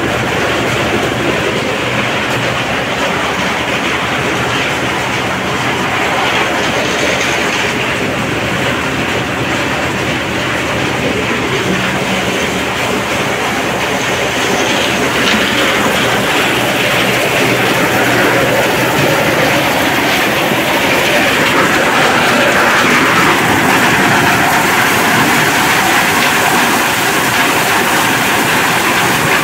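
Motorized corn sheller running steadily with a loud continuous rattle as it strips kernels off the cobs. It grows a little louder in the second half.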